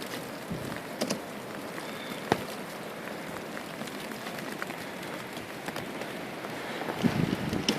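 Blizzard wind blowing steadily, with scattered sharp ticks of driven snow striking the camera. Near the end a gust buffets the microphone.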